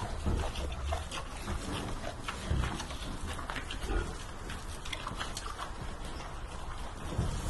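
Animal noises over a steady low rumble, with scattered short clicks and a couple of low thumps.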